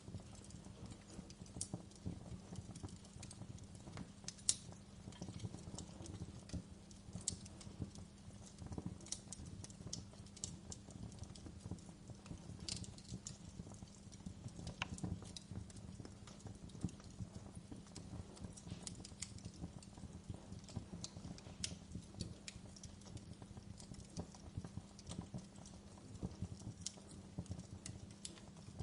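Fireplace wood fire crackling: irregular sharp pops and snaps over a faint low steady hum.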